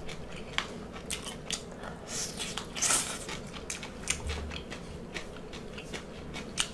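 Close-miked chewing of crisp, shell-on deep-fried salt and pepper shrimp: wet mouth clicks and crackly crunches, with a louder crunch about three seconds in.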